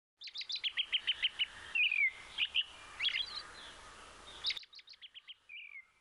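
A songbird singing: quick runs of about eight sharp chirps a second, each followed by a downward-sliding whistle, repeated several times. The faint background hiss cuts off suddenly about four and a half seconds in while the song carries on.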